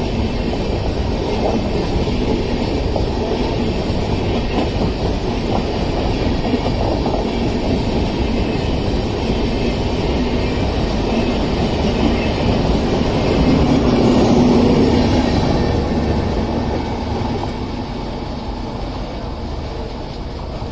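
A train running along the track, its wheels clicking over the rail joints amid a steady rumble. It grows louder to a peak about two-thirds through, then fades somewhat.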